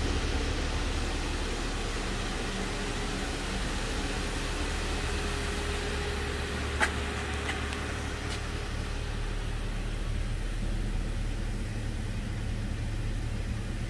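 2013 Buick Regal's 2.0-litre turbocharged four-cylinder engine idling steadily, with a low hum under an even hiss. A single sharp click about seven seconds in, followed by two faint ticks.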